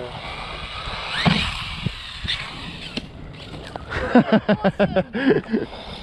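Small brushless RC cars driving on rough ground: a rushing noise with a few sharp knocks, then about four seconds in a quick run of short motor whines rising and falling as the throttle is blipped.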